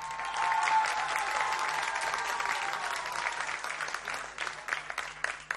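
Audience applauding, with a long high cheer over the first few seconds that sinks slightly in pitch. The clapping thins toward the end into scattered separate claps.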